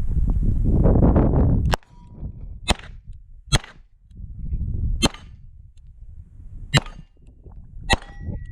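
Beretta 92 9mm pistol firing six shots at irregular gaps of about one to one and a half seconds, with steel target plates clanging and ringing on hits. A low rushing noise fills the first couple of seconds, until the first shot.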